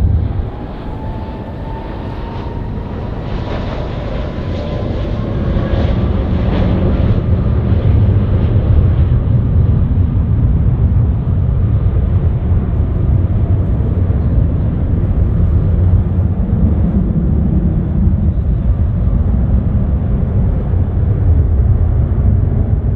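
Jet airliner engines running: a thin whine that climbs slowly in pitch over the first seven seconds while the low rumble grows louder, then a steady, heavy rumble.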